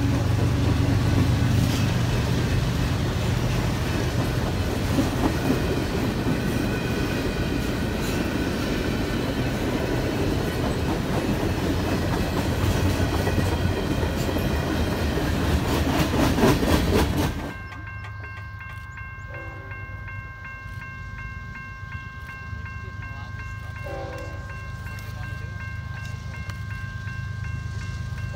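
A train passing close by: a loud, steady rumble of wheels on rails. About two-thirds of the way through it cuts off abruptly to a much quieter scene with several steady high tones.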